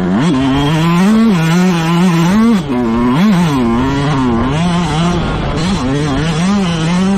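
Motocross bike engine racing on track, its pitch rising and falling again and again as the throttle is opened and closed.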